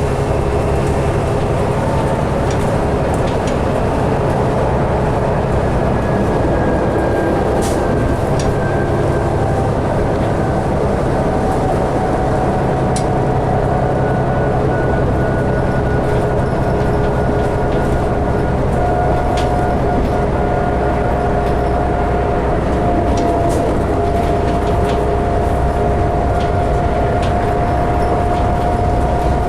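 2012 New Flyer D60LFR articulated diesel bus under way, heard from inside the cabin: steady engine and road noise, with a faint whine that slowly rises in pitch and a few light rattles.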